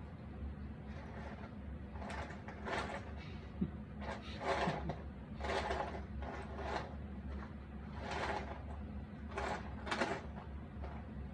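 Jigsaw puzzle pieces being handled and slid across a tabletop: a string of short, irregular scraping rustles, with one sharp click about three and a half seconds in, over a steady low hum.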